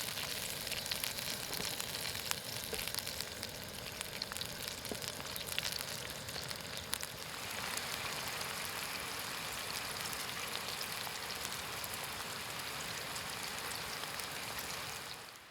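Food frying in oil in a pan, sizzling with small crackles, settling into a steadier, even hiss about halfway through.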